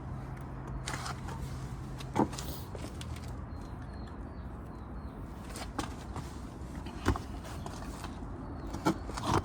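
Scattered sharp clicks and knocks of hands and tools working metal hose clamps onto carburetor intake boots, about five in all. A steady low hum runs under the first three seconds.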